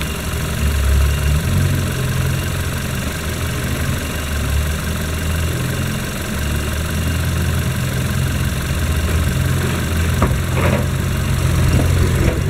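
VW Golf 6 1.4 TSI (CAVD) twincharged four-cylinder petrol engine idling steadily, run as an engine test.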